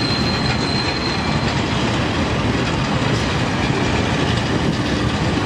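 Pacer diesel multiple unit running slowly alongside the platform, a steady rumble of engine and wheels on rail. A high-pitched wheel squeal carries on for the first second and a half, then stops.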